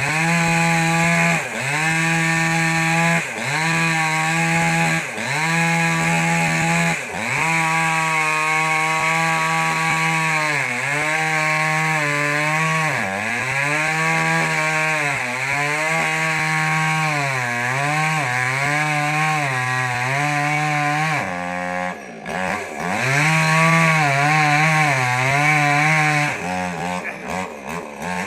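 Small petrol two-stroke chainsaw cutting wood, its engine note sagging under load and picking back up every second or two. About three-quarters of the way through it briefly drops off and revs again, and near the end it falls to a lower, uneven running.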